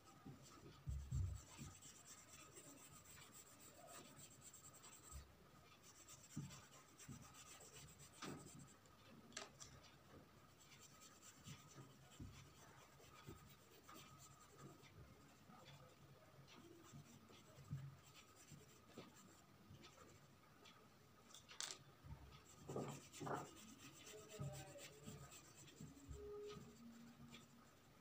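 Faint scratching and rubbing of a drawing tool on paper, with irregular small taps, over a faint steady high-pitched tone.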